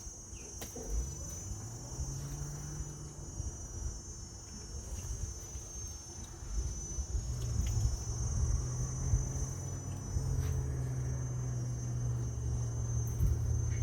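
Crickets shrilling in a steady, high-pitched chorus. Under it a low motor hum rises in pitch about a second in and gets louder from about seven seconds.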